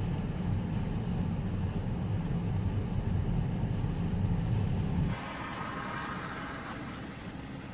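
Car driving on the road: a loud, low rumble of engine and road noise that cuts off abruptly about five seconds in, giving way to quieter, hissier tyre and road noise.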